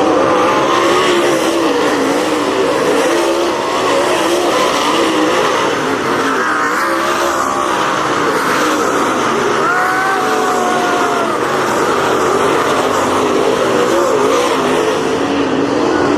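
Several dirt-track race car engines running hard around the track together, their pitches rising and falling as they go through the laps.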